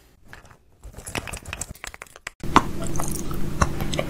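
A run of sharp clicks and taps. Then, from about two and a half seconds in, crunchy chewing and mouth clicks over a steady low hum.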